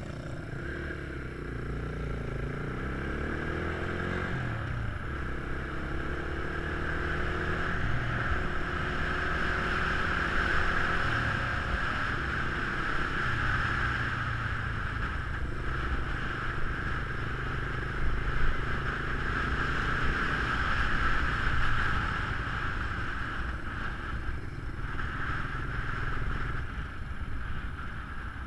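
Geon Scrambler 250 motorcycle engine running while riding, its pitch rising and falling through about the first dozen seconds with throttle changes, then holding steadier.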